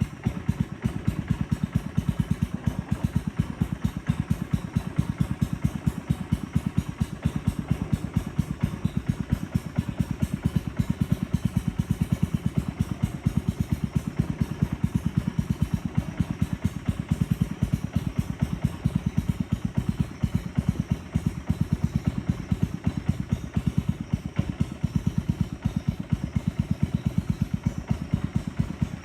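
Boat engine running steadily, with an even, fast putter of low pulses.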